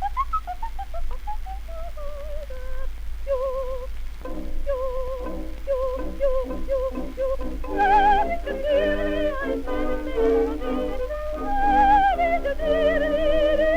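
Coloratura soprano voice from a 1914 acoustic-era record, singing rapid trills and runs that descend over the first few seconds. From about four seconds in, accompaniment chords join in short repeated beats under the trilling voice. A steady low hum from the old recording lies beneath.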